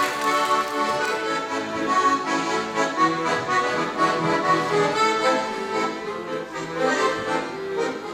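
Accordion playing an instrumental introduction to a song, melody over sustained chords.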